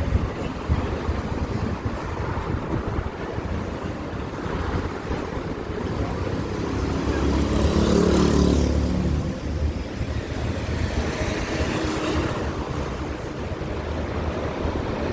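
Vehicle traffic rumbling steadily, with one vehicle's engine growing louder and then fading as it passes, loudest about halfway through.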